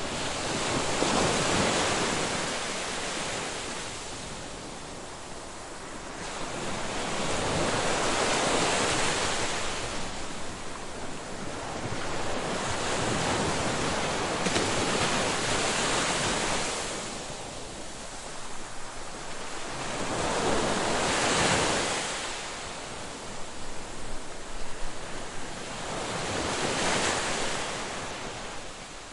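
Ocean surf breaking on a beach, the wash swelling and falling back in slow surges about every six seconds, five waves in all.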